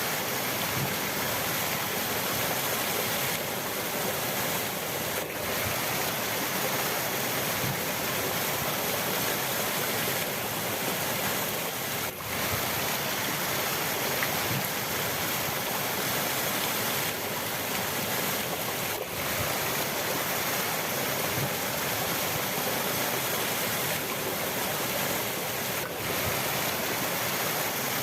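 River water rushing steadily, an even, continuous noise.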